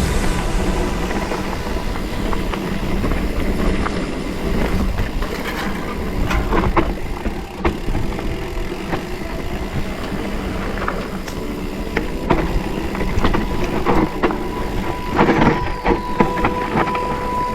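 Riding noise from a bicycle on the move: a steady rumble of wind and tyres with many scattered rattling knocks.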